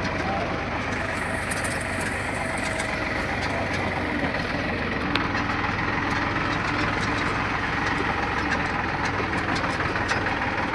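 Tractor engine running steadily at an even speed, a constant low hum with no revving.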